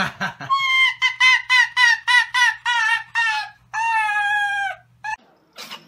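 A white fox giving a quick run of short, high-pitched yelping calls, about three a second, then one longer held call.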